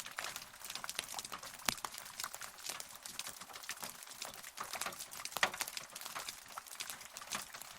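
Rain falling, heard as a dense, irregular pattering of individual drops tapping close by, with no thunder.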